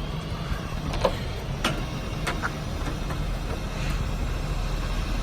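Ford F550's 6.7-litre Power Stroke diesel idling with a steady low rumble while it runs the boom hydraulics, with a few light clicks in the first half.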